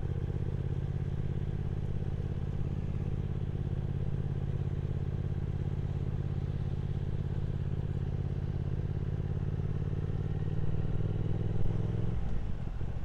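Triumph Speed Twin 1200's parallel-twin engine running at a steady cruise, its note holding even, then changing and dropping about a second before the end.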